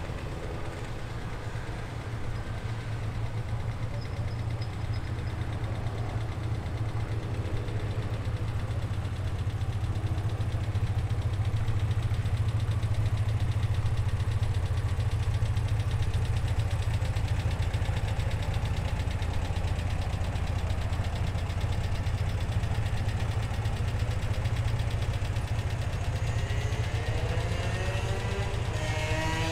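A car engine idling close by, a steady low hum that grows louder about a third of the way in. Near the end an engine revs up, its pitch rising.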